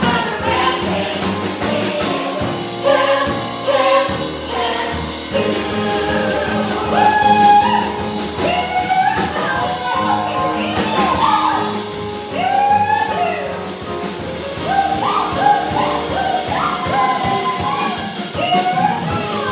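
A song sung by voices with instrumental accompaniment, the sung lines wavering over a steady backing.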